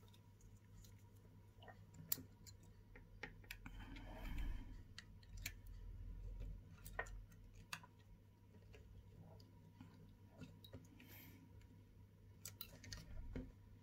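Faint, scattered clicks and taps of small tools and parts being handled during phone board reassembly, over a steady low hum.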